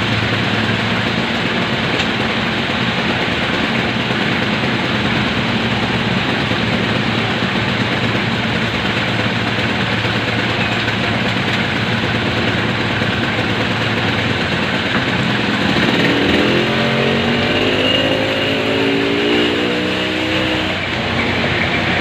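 Motor vehicle engine running under a steady hiss of heavy rain, with an engine revving up, its pitch rising, about 16 seconds in and easing off a few seconds later.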